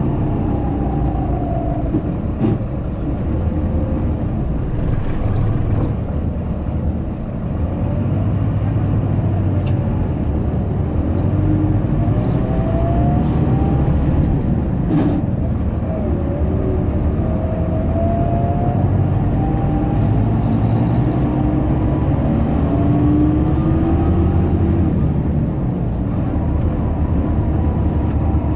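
Scania K340IB coach running on the road, heard from on board: a steady low engine rumble with a whine that rises and falls as engine speed changes, and a couple of brief knocks or rattles.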